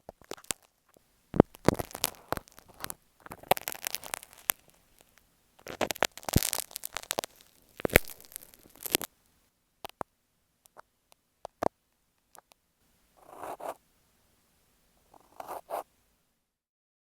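Scratching, rubbing and tapping right on an earphone microphone: several stretches of scratchy rubbing full of sharp clicks, scattered single taps, then two short, duller rubs near the end.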